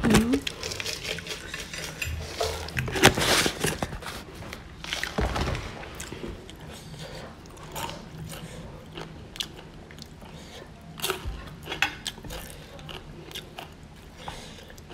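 Close-up chewing and crunching of a mouthful of crispy fried chilies with stir-fried broccoli and shrimp, in many short sharp crackles, loudest about three seconds in. Near the end a spoon clinks and scrapes on the plate.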